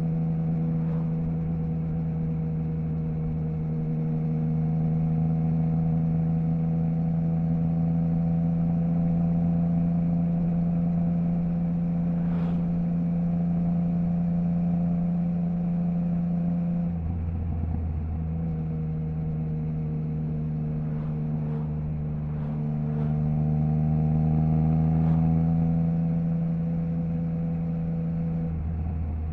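Triumph Trident 660's inline three-cylinder engine through a Zard stainless full exhaust with the baffle removed, running at a nearly constant engine speed under way. The steady note breaks off briefly about two-thirds of the way through and again near the end, then picks up at much the same pitch.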